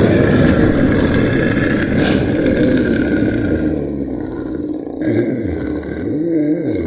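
A large animal's deep, rough roar, ending with a low call that rises and falls in pitch.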